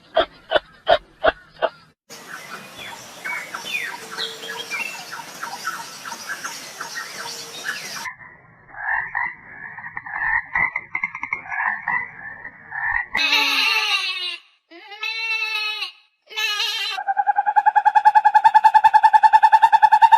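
A run of different animal calls cut one after another. It opens with a quick series of evenly spaced croaks, then chirping, a pulsing chorus, a few drawn-out calls, and a steady buzzing trill near the end.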